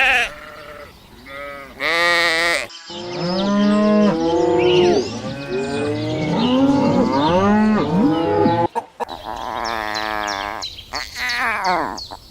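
Farm animals calling, clip after clip: a couple of short bleats, then, after a sudden cut, several cattle mooing over one another for about six seconds, then more calls after another cut.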